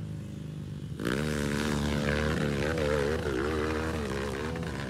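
Enduro motorcycle engine revving, its pitch rising and falling as the throttle is worked; it gets much louder about a second in.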